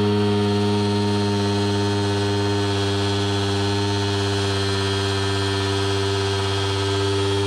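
A 50cc two-stroke supermoto engine held at steady high revs while the bike stands still, the throttle held open by hand: one unbroken, level engine note.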